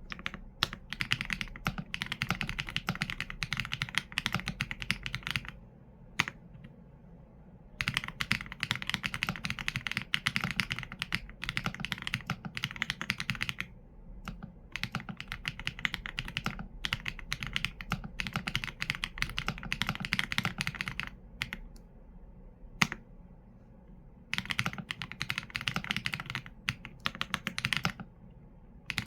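Typing on a Qsenn A75 mechanical keyboard with Leobog Graywood V4 linear switches and PBT keycaps: quick runs of keystrokes broken by a few short pauses. Lone louder key strikes fall in two of the pauses.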